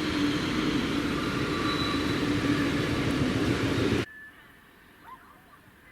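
Steady rushing noise of a passing train, with a few steady whining tones, which cuts off suddenly about four seconds in. Faint bird chirps follow.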